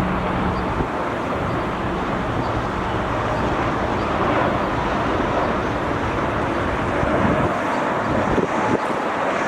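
Steady roar of jet airliner engines, mixed with wind buffeting the microphone; the low rumble eases near the end.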